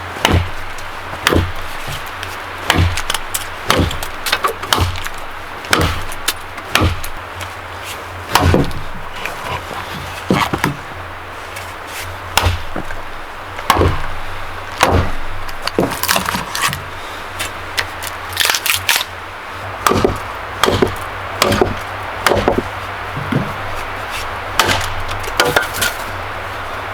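Firewood being chopped and split: a long series of sharp wooden strikes at an irregular pace, some in quick pairs, over a low steady hum.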